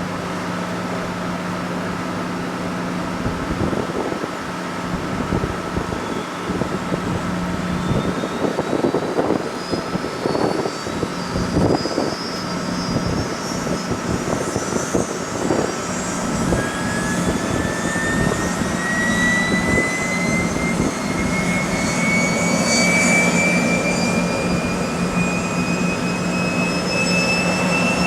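Kawasaki T-4 trainer's IHI F3 turbofan engine starting up: a turbine whine that rises steadily in pitch from about six seconds in, joined by a second, lower rising whine about halfway through, over a steady low hum. Irregular knocks sound in the first half.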